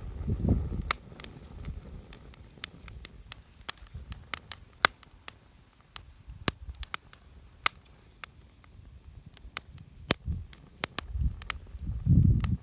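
Wood campfire crackling: irregular sharp pops and snaps. There are heavier low thuds at the start and again near the end.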